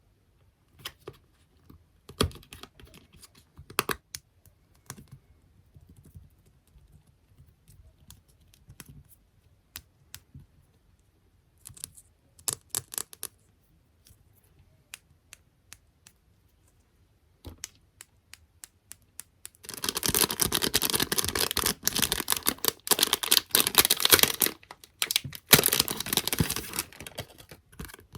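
Close-miked ASMR tapping and scratching on small objects such as stickers, squishy toys and plastic clips. It starts as scattered single taps and clicks, then about two-thirds of the way in turns into a dense, rapid flurry of fast tapping and scratching that is much louder.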